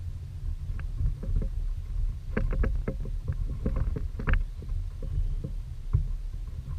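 Wind rumbling on the microphone aboard a fishing kayak, with a run of small, sharp knocks about two to four seconds in.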